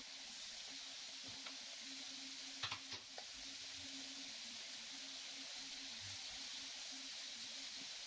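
Chicken strips frying in oil in a pan, giving a faint steady sizzle. A few light clicks come about three seconds in.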